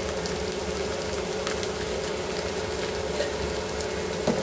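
Onions with ginger-garlic and cumin paste frying in hot oil in a pan: a steady sizzle with a low steady hum underneath, and a couple of light knocks near the end.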